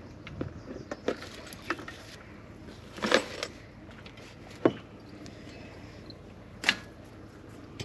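Fishing gear being handled and packed up: half a dozen scattered clicks, clacks and rattles, the loudest about three seconds in.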